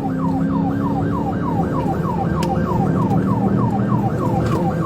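Police car siren on a fast yelp, about four falling wails a second, over the steady running of the patrol car and road noise.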